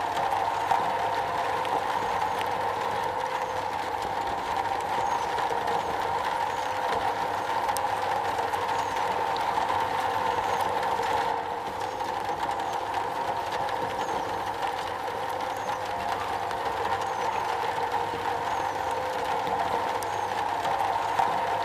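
Steady rain drumming on a metal roof, an even, unbroken patter.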